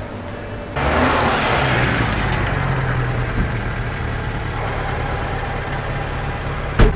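An old car's engine comes in suddenly about a second in and keeps running steadily with a low hum. A single sharp knock comes just before the end.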